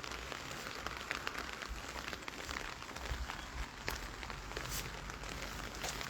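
Steady rain falling, with many small scattered ticks of drops striking.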